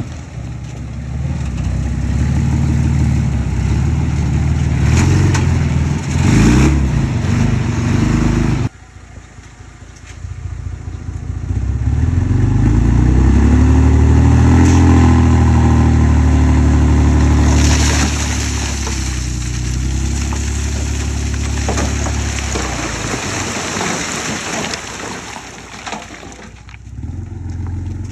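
Komatsu D20P bulldozer's diesel engine working under load, with a few knocks early on. Its sound drops off suddenly about nine seconds in, then it revs up and holds high and steady before easing off near the end.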